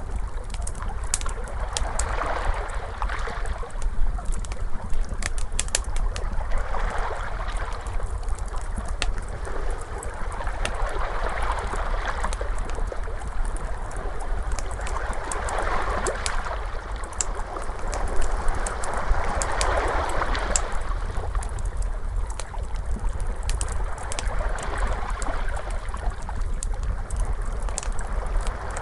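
Ocean waves washing in and out in swells every four to five seconds, with a wood fire crackling over them in scattered sharp pops and snaps.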